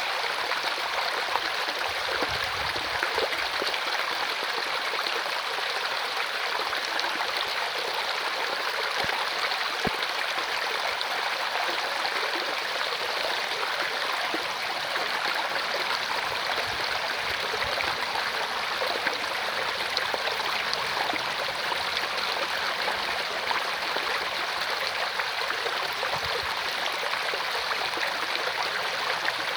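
Mountain stream rushing and gurgling over rocks, a steady, even rush of water.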